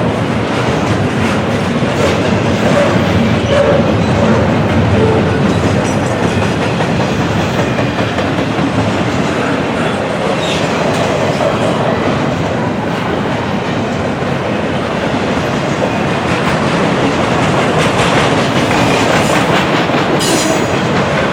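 A train rolling past, its cars' wheels clacking steadily over the rail joints.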